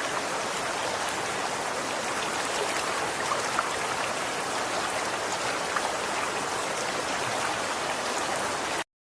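Running water flowing steadily, with a few brief droplet plinks in the middle. It cuts off abruptly into silence near the end.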